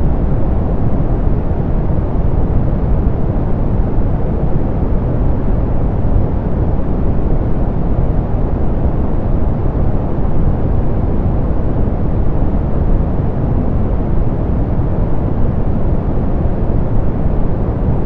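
Steady soft pink noise, an even rushing hiss weighted toward the low end and rolled off in the highs, unchanging throughout.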